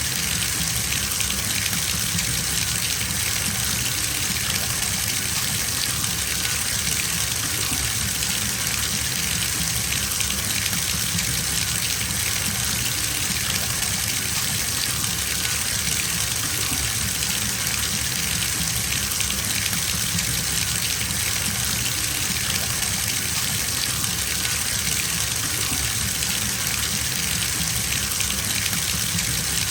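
Tap water running steadily into a bathtub as it fills, an even, unbroken rushing.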